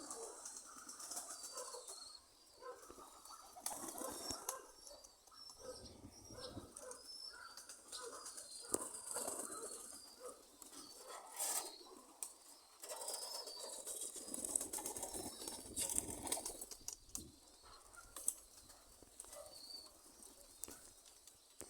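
Domestic pigeons cooing, with bursts of wing flapping and high chirping calls over them.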